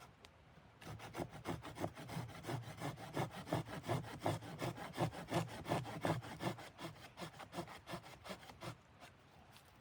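Hand saw cutting wood with quick, even rasping strokes, about four or five a second, starting about a second in and stopping near the end.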